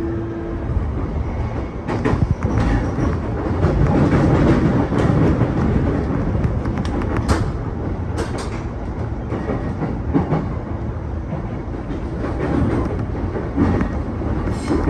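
Running noise of an E233 series 2000 subseries electric commuter train heard from inside the car, a steady rumble with the wheels clacking over rail joints a few times.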